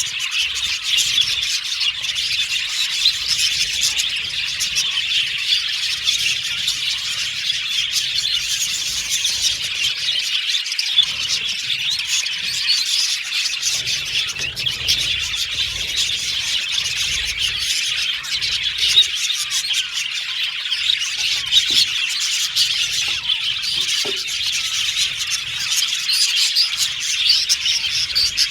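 A flock of budgerigars chattering and warbling together, many birds chirping over one another continuously.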